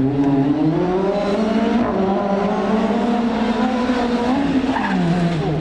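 Rally car engine at full throttle: its pitch climbs in the first second, holds high for about four seconds, then drops as the throttle is lifted near the end.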